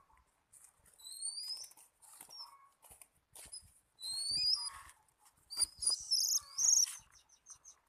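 Oriental magpie-robin calling: rising whistles about a second in and again around four seconds, then a burst of chirps, with scattered light rustles and clicks between them.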